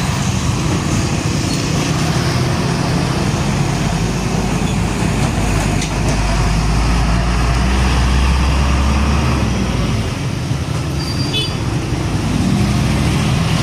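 Busy road traffic with heavy diesel vehicles passing. A deep low rumble swells from about six seconds in and fades after nine as a large truck goes by close.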